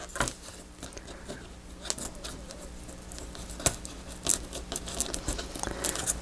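Small taps, scratches and rustles of paper and double-sided score tape being handled and pressed down by hand, in scattered short clicks.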